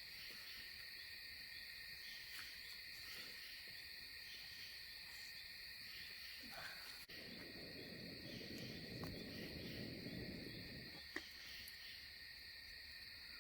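Steady chorus of crickets, a continuous high trill. About halfway through, a low, soft rushing noise joins underneath.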